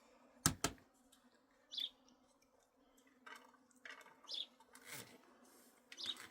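Two sharp knocks or clicks in quick succession, followed by a few short, high chirps spaced a couple of seconds apart over a faint steady hum.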